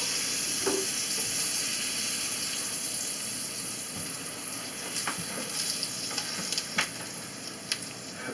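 Buttered flour tortilla with ham and cheese sizzling in a hot frying pan: a steady frying hiss that slowly eases off, with scattered small pops and crackles in the second half.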